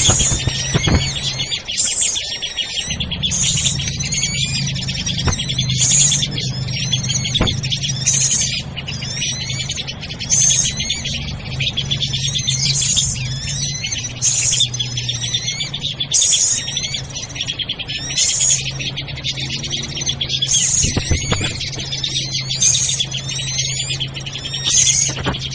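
Bird-lure recording of noisy drongos: dense overlapping chirps, trills and chattering calls, with a harsh high call recurring every second and a half to two seconds and a low steady hum underneath.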